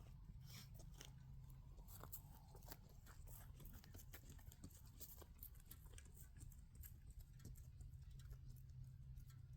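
Near silence: a faint low rumble with scattered soft crackles and clicks.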